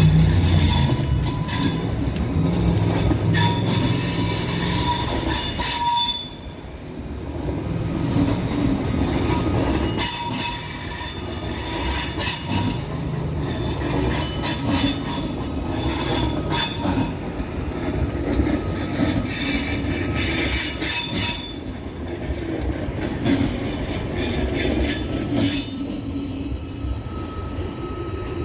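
Train moving through a station, its steel wheels squealing on the rails in shifting high screeches over a low rumble, with a brief lull about six seconds in.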